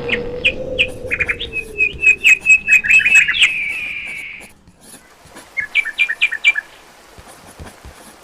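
A bird calling in a rapid run of sharp, high chirps that stops abruptly, followed by a second short burst of chirps a couple of seconds later.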